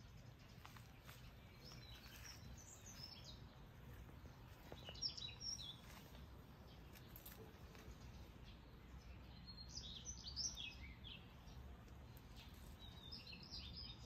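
Small songbirds chirping in four short bursts of quick high notes, the loudest about five and ten seconds in, over a faint low background rumble.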